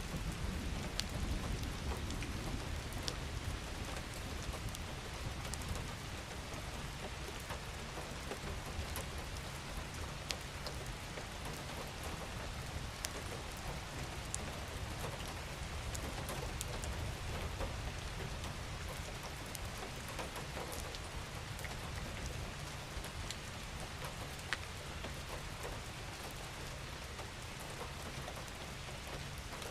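Steady rain falling, an even hiss with many single drops ticking out sharply, over a low rumble that eases slightly near the end.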